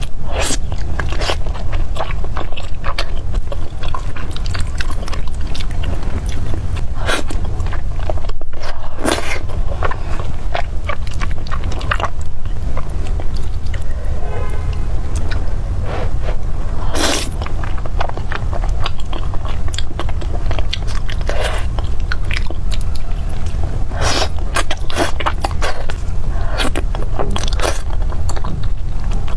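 Close-miked eating sounds: a person chewing and biting food, with many short, irregular wet clicks over a steady low rumble.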